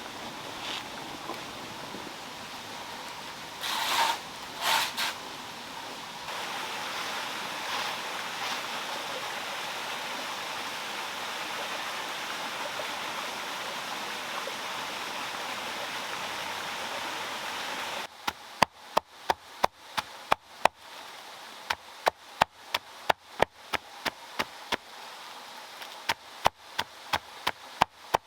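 Water running steadily over a small waterfall, with two short louder splashes about four seconds in. About eighteen seconds in it gives way abruptly to quick, sharp chopping strokes, two or three a second.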